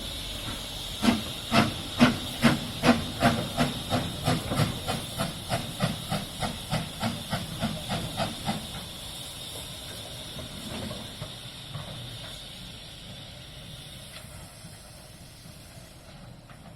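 Steam locomotive pulling away: a steady hiss of steam, then exhaust chuffs that start about a second in, quicken from about two to three a second and grow fainter, dying out after about eight seconds while the hiss fades more slowly.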